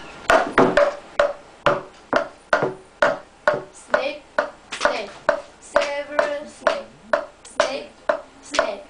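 Short, sharp voice-like syllables on a steady beat, about two a second, each starting with a click-like attack.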